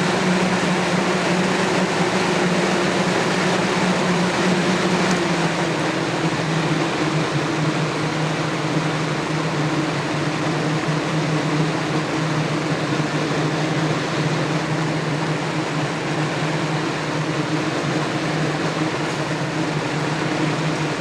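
Lasko Galaxy 3712 12-inch two-speed box fan running on high, heard up close at its motor: a steady motor hum under an even rush of air from the blades.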